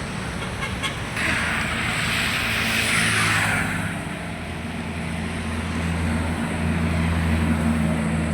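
Road traffic: a vehicle rushes past about a second in, then a truck's engine runs with a steady low hum that grows louder toward the end.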